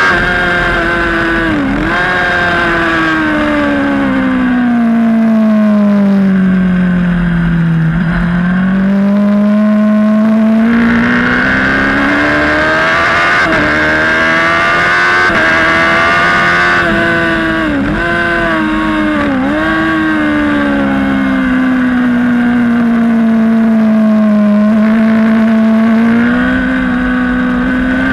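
Sport-bike racing motorcycle engine under the rider, with wind rush over it. The engine pulls hard with quick dips in pitch at each upshift. The revs then fall slowly as the bike slows for a corner and climb again on the way out, twice over.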